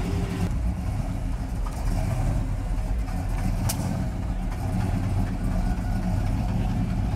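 Chevrolet Impala SS's V8 engine running as the car pulls away at low speed, a steady low exhaust rumble.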